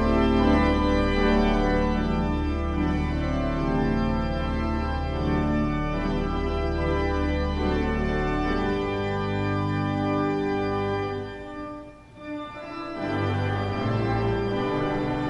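Organ playing sustained chords over a deep bass, with a brief pause between phrases about twelve seconds in.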